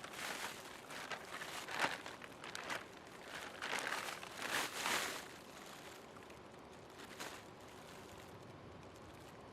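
Irregular rustling and crinkling, like something being handled, for about five seconds, then only a faint steady hiss.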